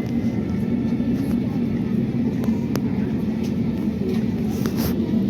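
Steady low rumble of an airliner's engines and airframe heard inside the passenger cabin, with a few faint rattles and clicks.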